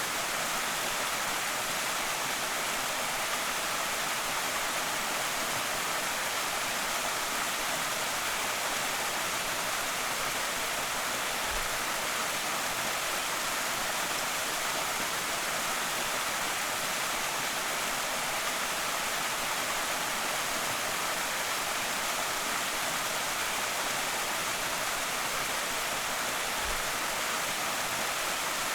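Small creek waterfall pouring and splashing steadily, an even rushing hiss without pauses or changes.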